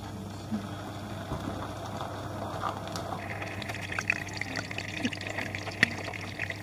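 Martabak telor frying in hot oil: a steady sizzle, with quick crackles and pops thickening from about three seconds in.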